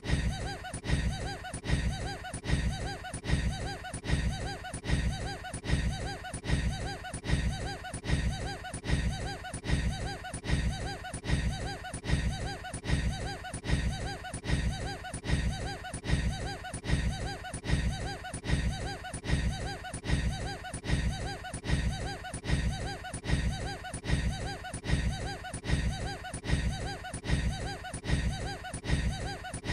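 A man's short, odd laugh, one recorded snippet looped over and over, repeating evenly about once a second.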